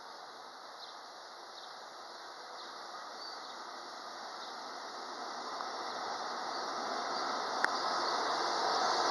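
Electric locomotive hauling a container freight train as it approaches, its running and wheel-on-rail noise growing steadily louder. A single sharp click comes near the end, and faint insect chirps sound in the first few seconds.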